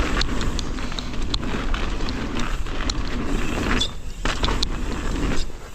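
Mountain bike riding fast down a frozen dirt trail: steady tyre and wind noise with frequent sharp rattles and clacks from the bike, including a noisy rear suspension damper in the freezing cold. The noise drops briefly about four seconds in and again just before the end.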